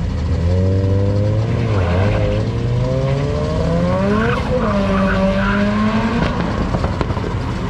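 A car engine revving hard: its pitch climbs, drops sharply and climbs again, three times over, with a lower steady engine drone under the first two seconds.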